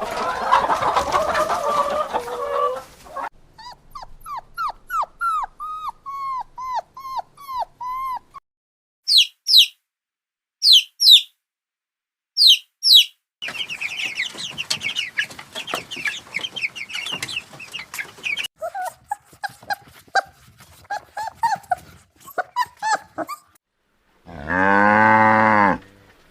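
A run of different animal calls, one clip after another: a noisy jumble at first, then a string of short falling calls, then high sharp chirps, more short calls, and a loud drawn-out call near the end.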